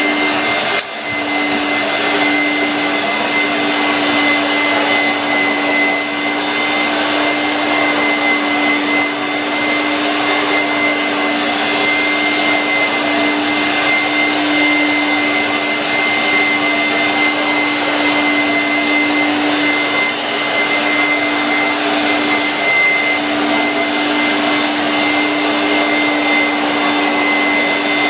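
A 1986 Vorwerk VK 117-1H upright vacuum cleaner, a straight-suction machine with no brush roll, running loudly and steadily while vacuuming. It gives a constant rush of air over a steady hum and a high whine, with a brief dip just under a second in.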